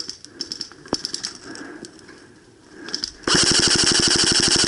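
Airsoft electric gun firing one long full-auto burst, a fast even rattle of about fifteen shots a second, starting about three seconds in. Before it, a few light clicks and knocks of handling gear.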